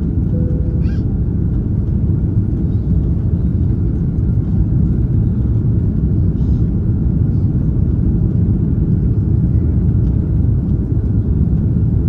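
Loud, steady roar of an Airbus A330-243's Rolls-Royce Trent 700 turbofans at climb thrust just after liftoff, heard from inside the passenger cabin.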